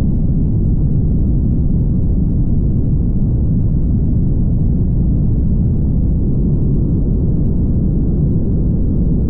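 Car driving at speed: a steady, even low rumble of road and wind noise with no changes.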